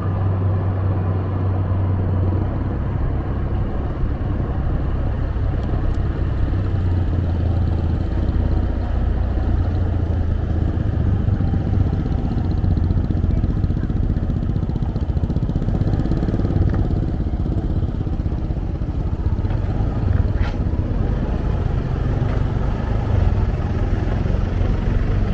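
Motorbike engine running steadily while riding, mixed with road and wind rush.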